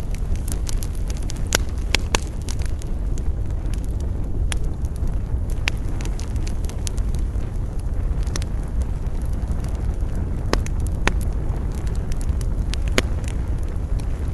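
Campfire crackling, with irregular sharp pops of burning wood over a steady low rumble of wind.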